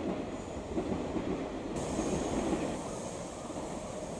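Electric train running on the rails, a rumbling rail noise with a faint high whine joining about two seconds in.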